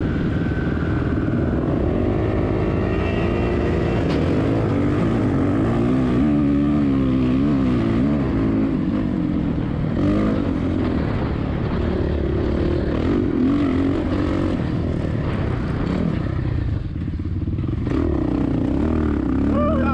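Suzuki RM-Z450 single-cylinder four-stroke motocross bike engine running, its pitch rising and falling repeatedly with throttle changes, with wind rumble on the microphone.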